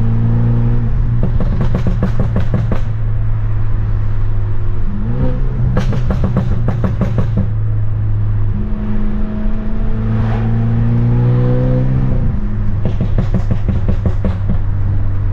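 Straight-piped, Stage 2 tuned BMW F30 328i's turbocharged four-cylinder driving, its exhaust drone rising and falling in pitch with the throttle. It is broken three times by short strings of crackling exhaust pops and bangs.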